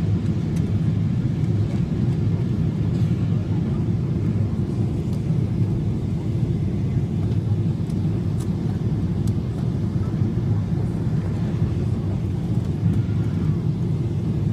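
Airliner cabin noise in flight on the approach to landing: a steady low rumble of engines and airflow, unchanging in level.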